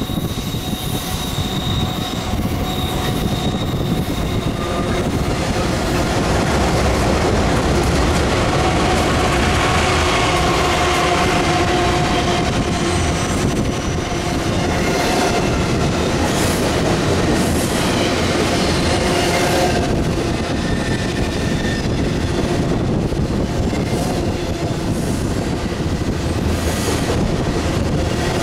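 Freight train passing: the lead diesel locomotives go by first, then a long string of double-stack container cars rolls by steadily, the wheels squealing on the curve with a whine that changes pitch and comes and goes.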